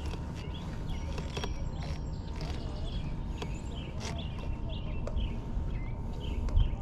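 Birds calling, a string of short chirps at irregular intervals, over a low steady rumble.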